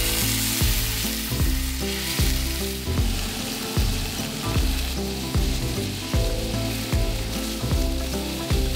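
Chicken breast pieces sizzling in a cast-iron skillet on a camp stove as they are turned with metal tongs. Background music with a steady beat plays throughout.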